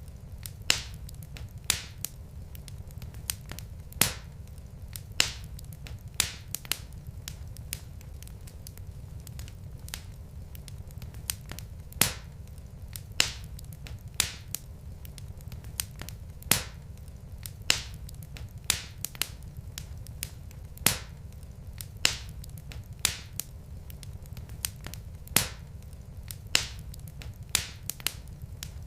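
Wood fire burning logs in a fireplace, with sharp irregular crackles and pops, about one or two a second, over a steady low rumble.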